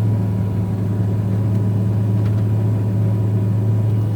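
Steady low drone of a truck's engine and road noise heard inside the cab while driving.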